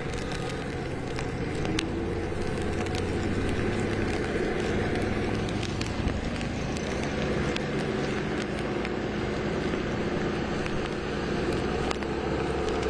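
A motor vehicle engine running steadily with a low hum that shifts pitch a couple of times, over a constant noisy rumble, with a few faint clicks.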